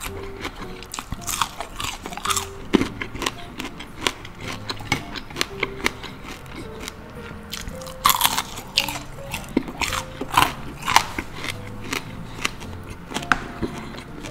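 Close-miked chewing of crispy deep-fried pork belly: repeated crunching and crackling bites, loudest about eight seconds in and again around ten to eleven seconds.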